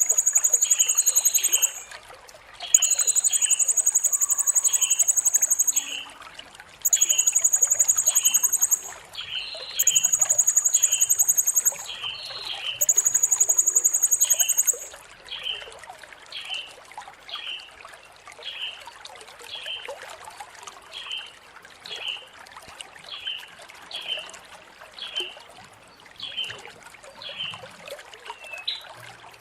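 Blue-crowned hanging parrot (serindit) calling: five loud, very high-pitched buzzing trills, each a second or two long, in the first half. Under them runs a steady series of short, lower chirps repeating about every two-thirds of a second.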